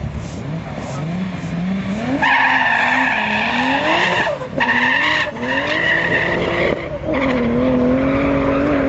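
Drag race car engine accelerating hard down the strip, its pitch climbing and then dropping at three quick upshifts, and holding a steady high note near the end.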